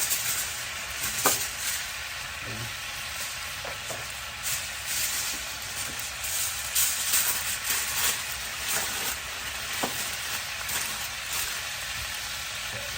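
Pan of beef rouladen in beef stock sizzling on a charcoal grill, with irregular crackly rustles and a couple of light metallic clinks.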